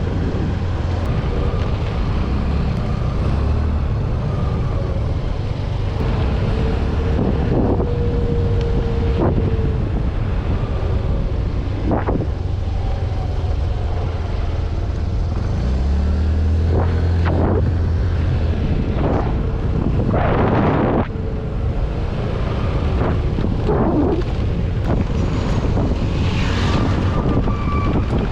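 Vehicle engine running, with steady wind noise buffeting the microphone and a few brief knocks and rattles.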